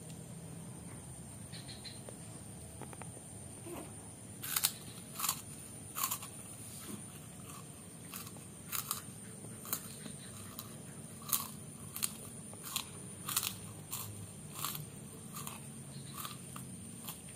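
A young child chewing kerupuk, the crisp Indonesian crackers, with sharp crunches starting about four seconds in and coming irregularly, about one or two a second.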